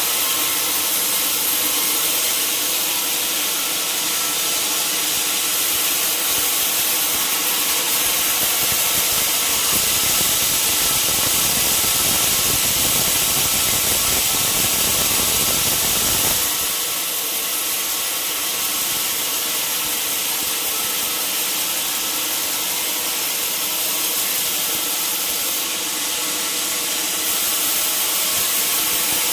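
Sawmill saw running and cutting through a log: a steady high hiss over a hum of machine tones. A fuller, deeper sound builds from about ten seconds in and stops abruptly at about sixteen seconds.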